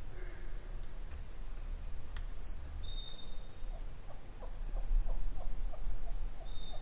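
Wild birds calling at dawn in the woods: a few thin, high whistled notes, then a run of about a dozen evenly spaced lower notes, about three a second, over a steady low rumble.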